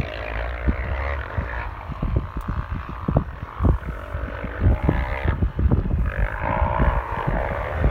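Dirt bike engines revving, one engine's pitch standing out loudest near the end, over heavy wind buffeting on the microphone.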